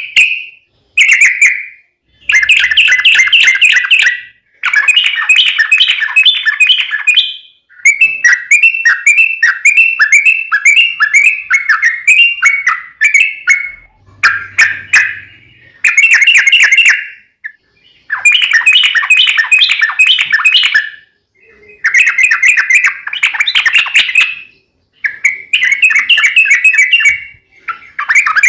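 Yellow-vented bulbul (trucuk) singing a series of loud, bubbling phrases of rapid notes, about ten phrases with short pauses between them. This is the long rapid-fire 'ropel' song that bird keepers play to set off a captive bulbul singing in reply.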